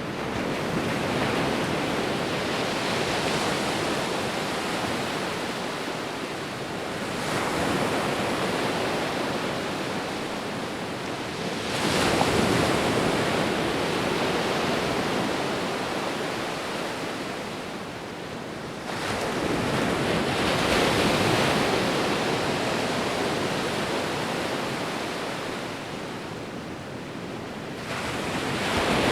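Sea waves breaking and washing on the shore, a continuous rush of surf that surges about every five to nine seconds, each surge rising quickly and then slowly fading.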